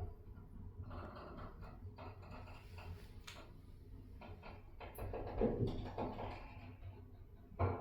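Passenger lift car travelling down between floors: a steady low hum from the drive, with a few faint knocks and rattles from the car.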